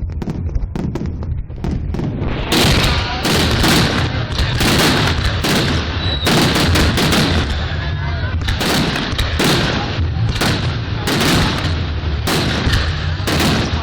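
Fireworks display: aerial shells bursting in a rapid run of loud bangs, about two a second, over a continuous low rumble. Lighter pops for the first couple of seconds, then heavier bangs.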